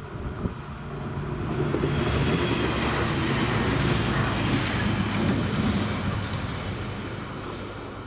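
A passenger train passing over a level crossing: its engine and wheel noise swells about a second in, is loudest through the middle, and fades away near the end.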